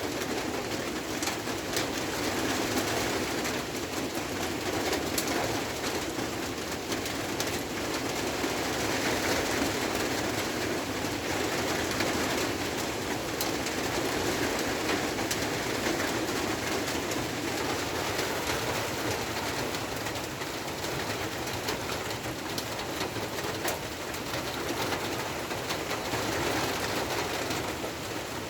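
Steady rain falling on a rice-field hut: an even hiss with a dense patter of individual drops.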